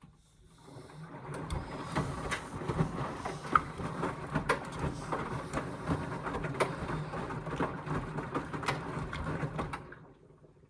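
Indesit washing machine drum turning during a rinse on the down jackets program: a steady motor hum with water and the wet load sloshing and knocking in the drum. It starts up about half a second in and stops near the end.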